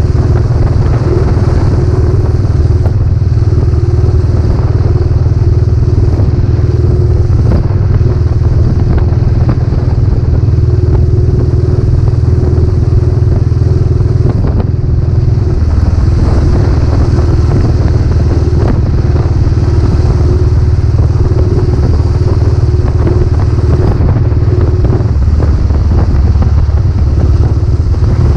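Royal Enfield Classic 500's single-cylinder engine running steadily through its newly fitted aftermarket silencer, a loud, deep, even exhaust note that shifts slightly a few times.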